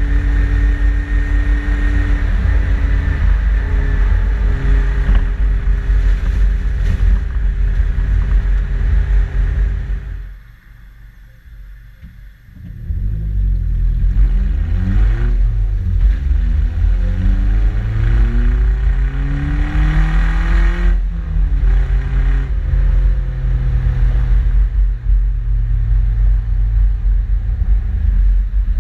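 Modified Suzuki Jimny's engine and exhaust, recorded at the rear of the vehicle, running steadily at speed. About ten seconds in it drops away sharply for a couple of seconds, then picks up again with the pitch climbing in rising sweeps that reset two or three times, like accelerating through gear changes, before settling to a steady drone.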